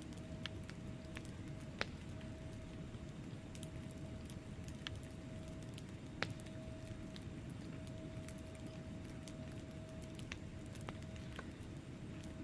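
Wood fire burning in a fireplace: a steady low rumble of flames with scattered sharp crackles and pops from the logs, two of them louder, about two seconds in and again a little past the middle.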